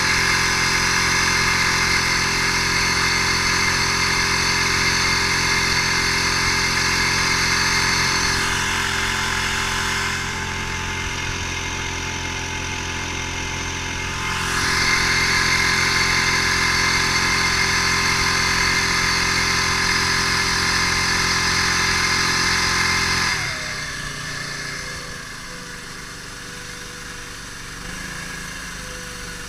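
An 8 hp mud motor (surface-drive outboard) runs steadily at high throttle. It eases off briefly about 10 seconds in and picks up again about 15 seconds in. About 23 seconds in it throttles sharply back to a much quieter run, its pitch sliding slowly down.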